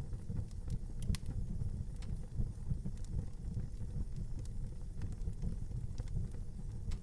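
Wood fire burning in an outdoor fireplace: a steady low rumble of flames with scattered sharp crackles and pops, the loudest pop about a second in.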